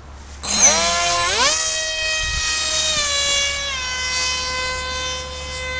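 Electric motor and propeller of a scratchbuilt Depron RC MiG-29 model throttled up: a whine that starts about half a second in, climbs steeply in pitch over about a second, then holds high, easing down a step about two-thirds of the way through.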